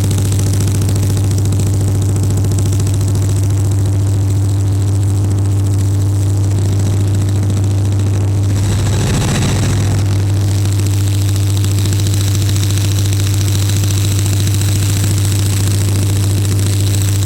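2TE10U diesel locomotive's 10D100 two-stroke opposed-piston diesel running steadily under load on a rheostat load test, a heavy steady drone with a thin high whine over it. About nine seconds in there is a brief rush of noise before it settles back.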